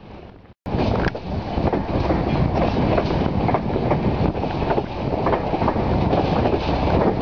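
Passenger train coaches running on the track: a steady rumble with repeated sharp clacks of the wheels over the rail. The sound fades and drops out for a moment about half a second in, then resumes.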